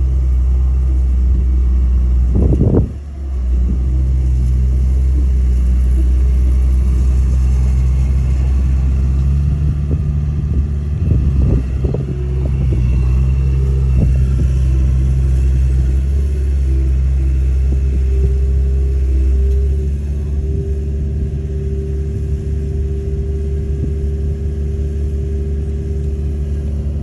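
Heavy diesel engine of earth-moving machinery running steadily with a low rumble. There is a brief sharp knock and dip about three seconds in, and a change in engine note about twenty seconds in.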